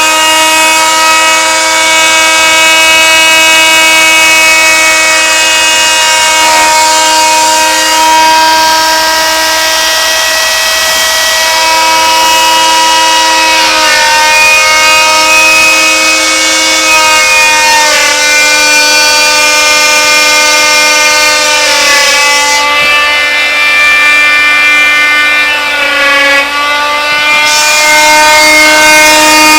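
Stepper motors of a homemade plywood CNC router whining as its axes move. The whine holds steady tones that jump to new pitches every few seconds as the moves change speed.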